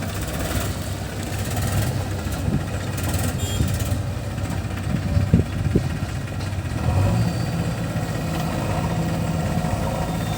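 Heavy diesel engine of earth-moving machinery running steadily, with a couple of short knocks about five seconds in.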